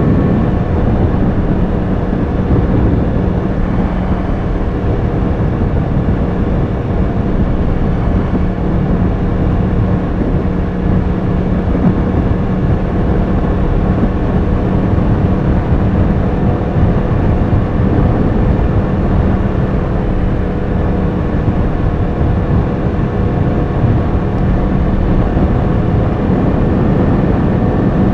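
Yamaha R1 sportbike's inline-four engine running at a steady cruising pace, with wind rush over the rider's microphone.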